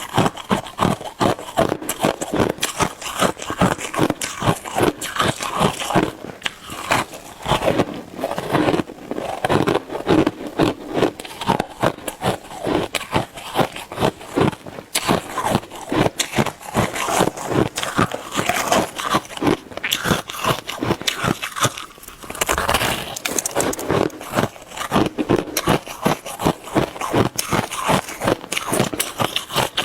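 Shaved ice being bitten and chewed close to the microphone: a fast, continuous run of crisp crunches, several a second, with a brief lull a little past two-thirds of the way through.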